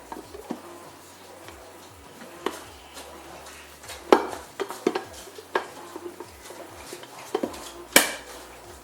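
Food storage containers and their lids knocking and clattering as they are handled, a scattering of sharp knocks with the loudest about four and eight seconds in.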